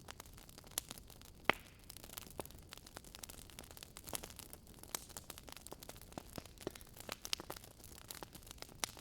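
Wood fire crackling in a fireplace: irregular small pops and snaps over a soft hiss, with one louder pop about a second and a half in.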